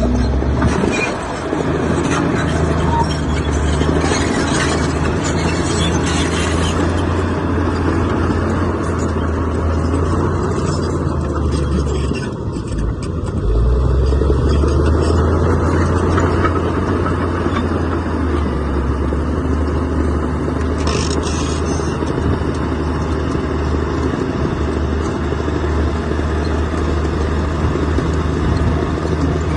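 Heavy diesel engine of earthmoving machinery running steadily. About twelve seconds in, it dips briefly, then picks up again louder.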